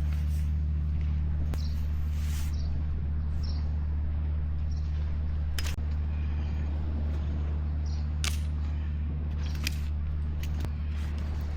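A steady low hum at a fixed pitch, with a few sharp clicks over it.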